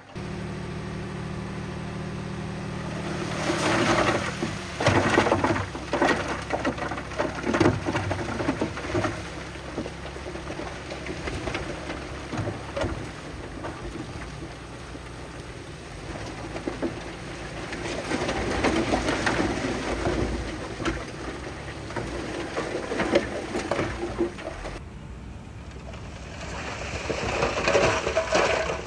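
Diesel engine of earthmoving machinery running steadily while loose stone and soil clatter and rumble, in two spells of heavy rattling, the sound changing abruptly near the end.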